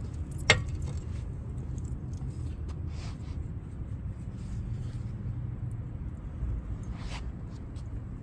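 A sharp metallic clink from brake-job tools and parts about half a second in, then two softer scraping handling sounds later on, over a steady low rumble.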